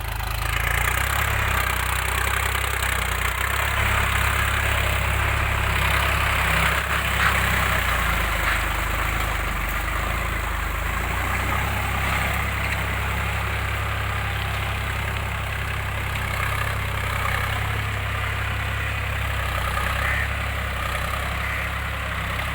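VST Shakti Viraaj 9045 tractor's 45 HP diesel engine running steadily at a low, even speed.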